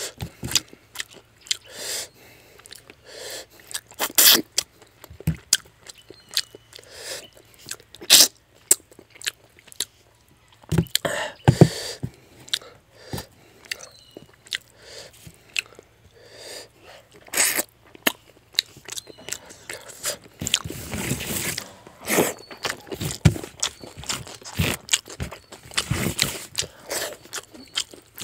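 Close-up chewing and crunching of fish head curry and rice eaten by hand: irregular wet mouth clicks and smacks, with a few louder stretches of crunching.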